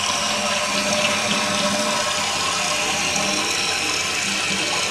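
1983 American Standard Cadet toilet flushing: a steady rush of water as the bowl empties and the tank drains and refills.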